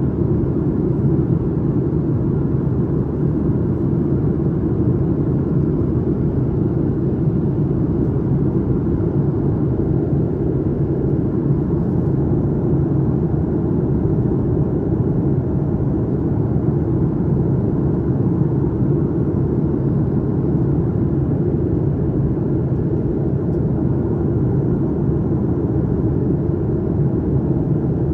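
Steady cabin noise inside a Boeing 737-900ER in flight: a low, even rumble of airflow and its CFM56-7B engines, with no change throughout.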